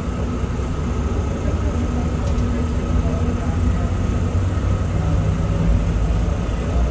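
Airport terminal shuttle train running, heard from inside the carriage: a steady low rumble with a faint steady whine, growing a little louder toward the end.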